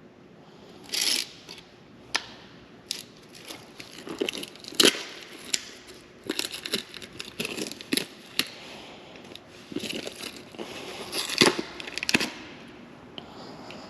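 Hands handling motorcycle brake parts during a front brake pad change: irregular sharp clicks and knocks mixed with short rustling, crinkling noises.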